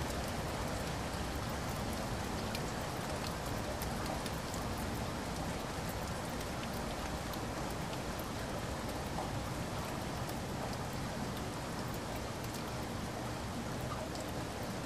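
Steady rain: a continuous hiss with scattered faint drop ticks.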